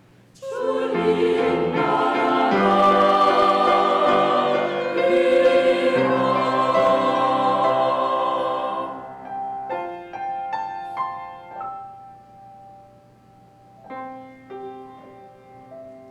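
Church choir singing with piano accompaniment. The voices stop about nine seconds in, and the piano plays a few soft closing notes that ring and fade.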